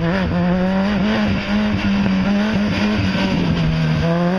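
Supercharged Lotus race car's engine running hard through an autocross slalom, its pitch rising and falling repeatedly as the driver gets on and off the throttle between cones.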